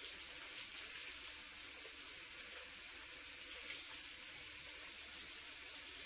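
Water running steadily from a tap into a sink, an even hiss with no breaks.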